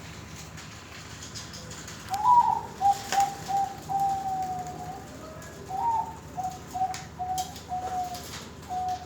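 Zebra dove (Bangkok-type perkutut) cooing in two phrases, the first starting about two seconds in. Each phrase opens with a rising note and runs into a string of short, evenly repeated coos.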